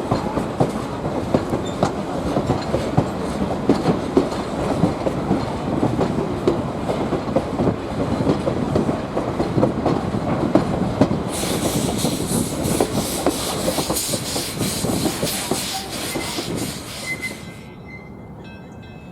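Passenger coach rolling along the rails behind a steam train, with a steady rumble and a rapid clatter of wheel clicks. A loud high hiss joins in about eleven seconds in for several seconds. Near the end the running noise drops away.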